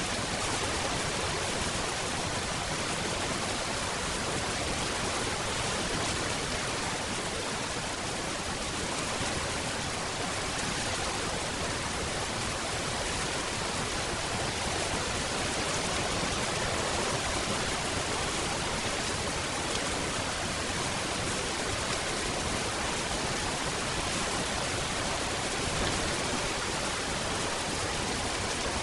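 Steady, even rainfall, a continuous hiss of rain with no distinct drops or events standing out.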